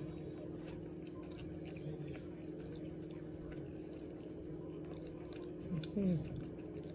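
Faint chewing and mouth clicks of someone eating a barbecued beef rib, over a steady low hum. A short voiced sound comes from the eater about six seconds in.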